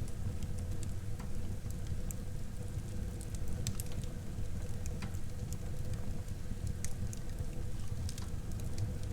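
Wood fire burning in a fireplace: a steady low rumble of flames with scattered small, sharp crackles and pops.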